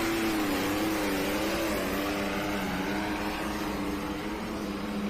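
Competition pulling machine's engine running hard under load during a pull, its pitch wavering for the first couple of seconds and then holding steady.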